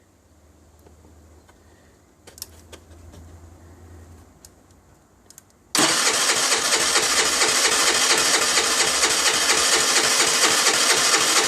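Engine of a 2008 Baotian Tanco 50cc four-stroke scooter, hard to start, setting off abruptly about six seconds in and running loud and steady. A few faint clicks come before it.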